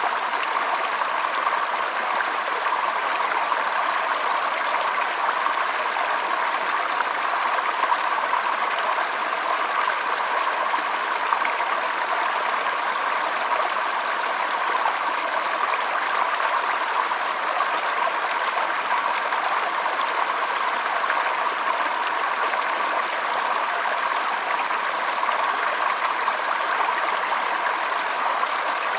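Shallow stream of water flowing and trickling steadily.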